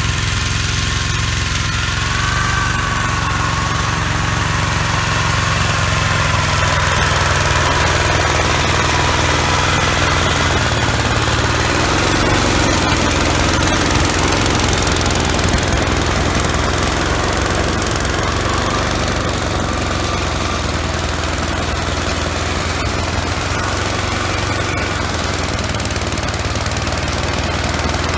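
Gravely walk-behind tractor engine running steadily, driving an MA115 Deluxe snowblower, with a higher whine that wavers in pitch through the first ten seconds or so.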